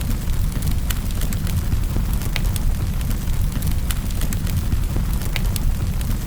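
Wood fire burning in a fireplace, crackling with many sharp irregular pops and snaps over a steady low rumble.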